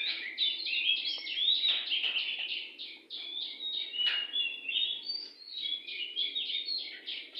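Oriental magpie-robin (kacer) singing a continuous, rapid song of short, varied whistled and chattering notes.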